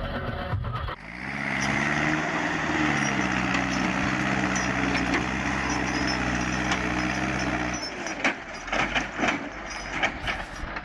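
A vehicle engine running steadily, its pitch climbing a little about two seconds in. About eight seconds in the engine sound drops away, and a series of sharp knocks and clatters follows.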